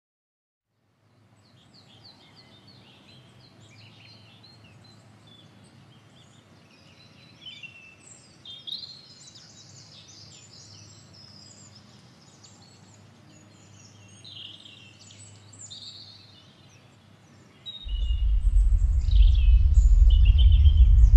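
Birds singing and chirping over a faint steady hum. About eighteen seconds in, a loud low rumble sets in and drowns them out.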